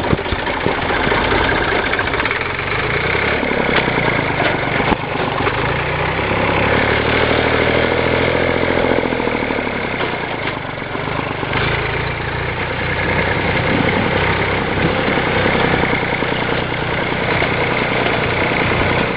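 Massey Ferguson 135's 2.5-litre three-cylinder Perkins diesel engine running as the tractor drives. Its pitch rises and falls back once, around the middle.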